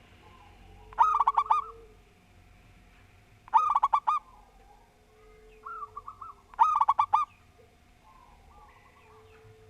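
Zebra dove (perkutut) cooing: three loud phrases of quick, rolling notes, each under a second long and spaced a few seconds apart, with fainter cooing in between.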